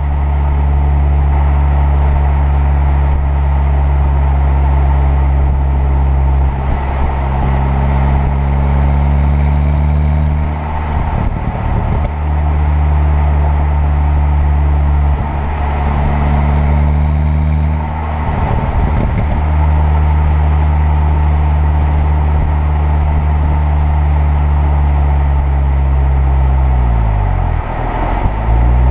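Turbocharged 2.0 TFSI four-cylinder car engine running at steady revs while driving. The steady note breaks off briefly twice, around eleven and nineteen seconds in, and near the end the revs fall and climb again.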